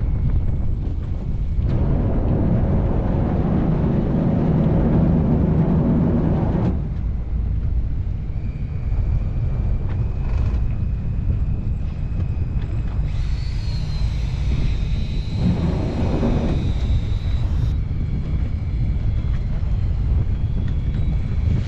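Boat engine running with a steady low rumble and wind on the microphone. A thin, high steady whine comes in about eight seconds in and lasts several seconds.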